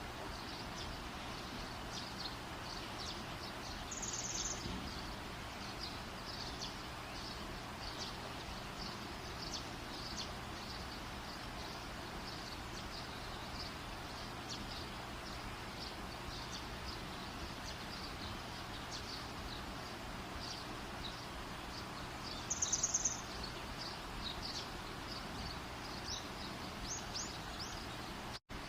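Campfire burning with a steady hiss and frequent small, high, sharp crackles or chirps. Two brief, louder, rapidly pulsing high trills come about four seconds in and again a little past twenty-two seconds. The sound cuts out for an instant just before the end.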